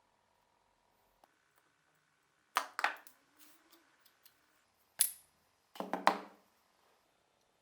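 Small metal parts clinking and knocking as they are handled and set down on a hard surface. There are two knocks about two and a half seconds in, a single sharp click at five seconds, and a short burst of ringing clinks just after.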